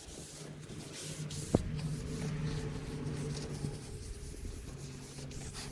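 A cloth wiping down a plastic taillight lens, with scratchy rubbing and scuffing. A steady low hum runs underneath, and there is one sharp click about one and a half seconds in.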